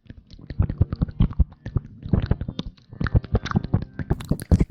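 Close-miked ASMR rustling and crackling: a dense, irregular run of quick crackles and soft taps.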